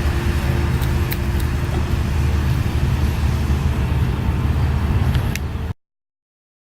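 Steady low rumble of road traffic with a constant engine hum underneath. It cuts off abruptly into dead silence near the end.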